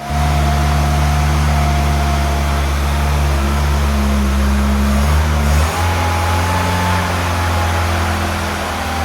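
Austin 1100's A-Series four-cylinder engine running steadily, its note shifting slightly about five and a half seconds in.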